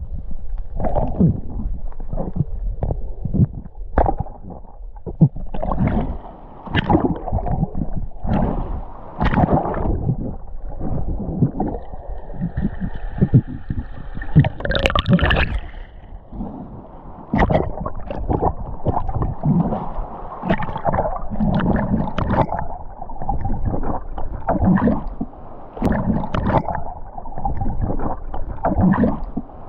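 Water gurgling and sloshing around a camera under water while spearfishing, in irregular surges.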